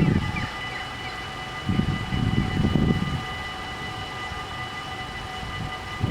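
Dutch level-crossing warning bells ringing steadily, with wind buffeting the microphone in gusts.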